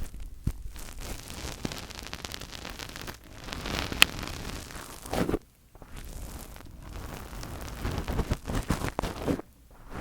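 Fingers rubbing, scratching and tapping directly on a microphone, heard as close, scratchy rustling with scattered small taps and one sharp click about four seconds in. The rubbing stops briefly twice.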